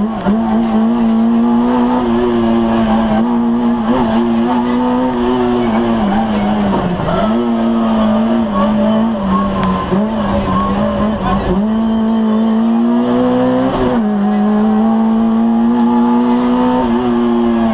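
Citroën AX GTI rally car's four-cylinder engine heard from inside the cabin, running hard at high revs under load. Its pitch dips briefly several times at gear changes and lifts, and climbs and then drops sharply about three-quarters of the way through.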